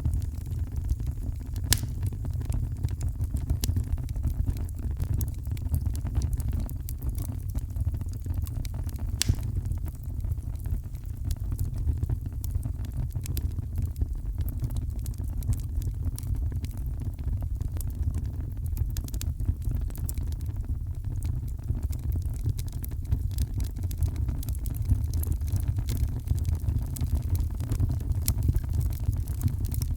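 Heavy rain and a fireplace: a steady deep rumble, with scattered sharp crackles and pops from the fire.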